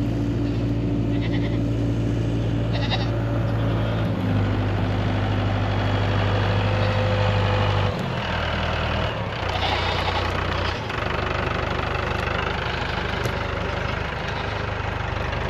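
Tractor engine running steadily. Its pitch drops about four seconds in and shifts again about eight seconds in. Goats bleat twice in the first few seconds.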